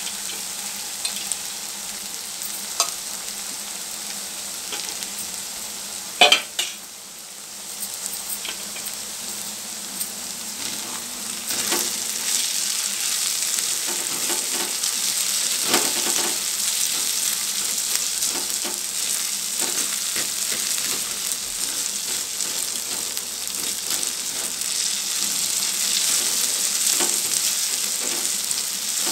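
Soaked, drained split moong dal sizzling in hot oil with onions and chillies in a kadai, stirred and scraped with a silicone spatula. A sharp knock about six seconds in is the loudest sound, and the sizzle grows louder from about twelve seconds in.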